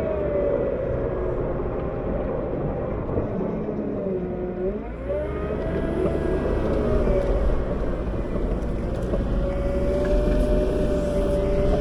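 Cat 908 compact wheel loader's diesel engine running under load while pushing snow; the revs drop sharply about four seconds in and climb back within a second, and the low rumble grows stronger afterwards.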